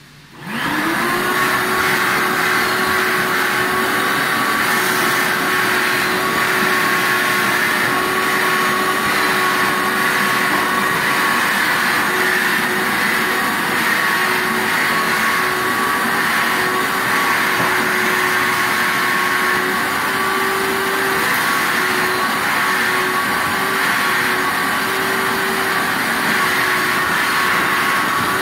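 Vacuum cleaner switched on, its motor spinning up with a quick rising whine and then running steadily.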